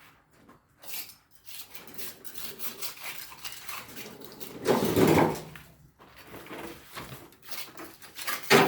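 A metal tool scraping and clattering against a hard surface in repeated rasping strokes, louder about five seconds in, with a sharp knock near the end: residue being scraped off.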